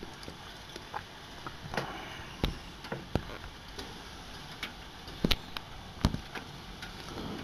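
Steady heavy rain, with a scattering of sharp irregular taps and knocks over it, the loudest about five and six seconds in.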